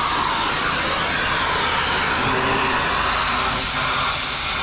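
A metal-cutting tool running steadily through scrap metal, giving an even, rushing noise.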